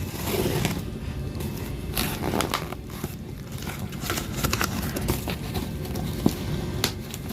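A cardboard parcel being handled and picked open, its packing tape and cardboard crinkling and clicking in irregular bursts over a steady low rumble, with one sharper knock near the end.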